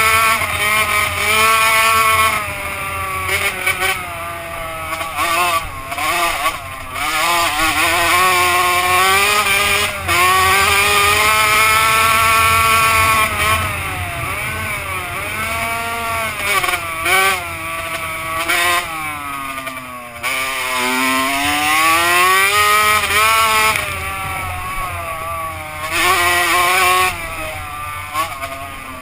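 Two-stroke motocross bike engine revving hard. Its pitch climbs, drops sharply and climbs again over and over as the bike accelerates, shifts and eases off.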